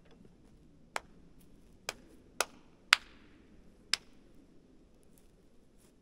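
Five sharp chopping strikes at uneven intervals of half a second to a second. The loudest falls near the middle and is followed by a short hiss.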